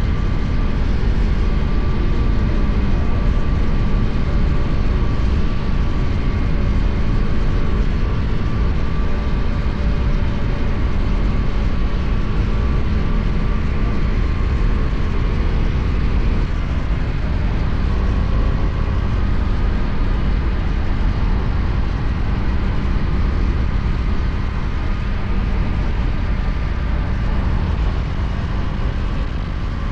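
KTM Duke 250's single-cylinder engine running steadily at cruising speed on the highway, under heavy, even wind and road noise.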